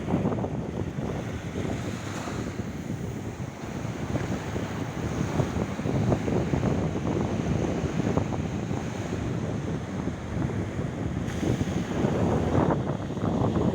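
Sea surf washing ashore, with wind buffeting the microphone in gusts.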